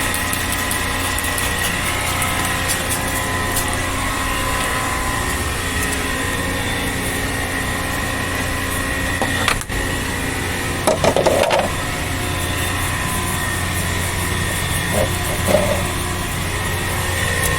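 A motor running steadily with an even hum, with a sharp click about ten seconds in and a few brief knocks soon after.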